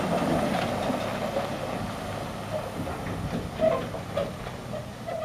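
Heavy vehicle running, with metallic clanks and rattles over a steady noise; a few sharper knocks come in the second half as the sound slowly fades.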